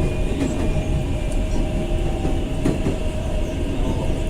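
Passenger train running, heard from inside a carriage: a steady low rumble with the occasional knock of the wheels over the rails.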